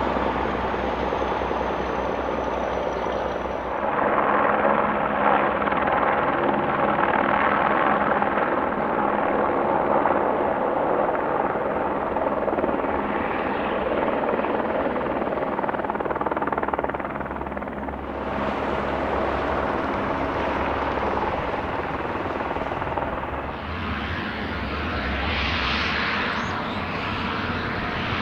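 Aircraft engine noise heard across the airfield, a steady rushing sound that changes abruptly about 4, 18 and 23 seconds in.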